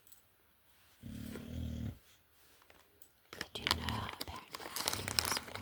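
A low rumbling sound about a second long, then from about three seconds in, plastic product packaging crinkling and rustling as it is handled and opened.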